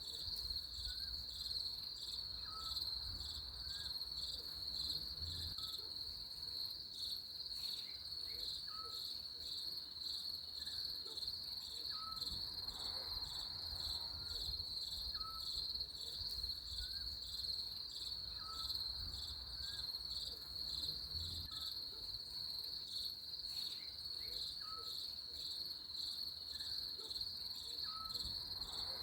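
Insects trilling steadily at a high pitch, with a short faint chirp repeating about every two seconds underneath.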